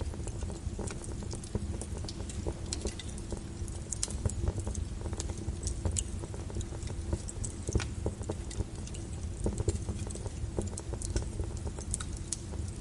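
Log fire burning in a fireplace: irregular sharp crackles and pops over a steady low rumble of the flames.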